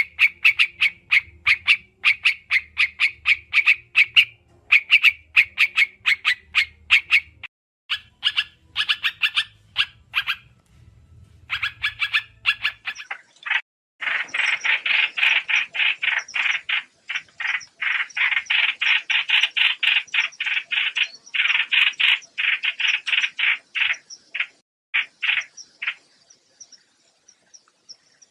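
Recorded trao trảo bird calls used as a trapping lure: rapid trains of short, sharp chattering notes, several a second, in bursts broken by brief pauses. A faint low hum lies under the first half.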